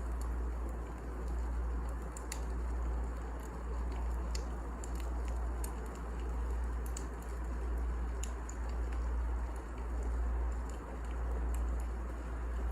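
Wood fire burning in a fireplace: sharp, irregular crackles and pops over a low rumble that swells and fades every second or two.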